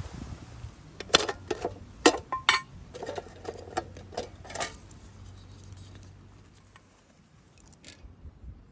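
Metal items clinking and clattering against each other, a quick cluster of sharp knocks with a brief metallic ring, then a few lighter clicks near the end.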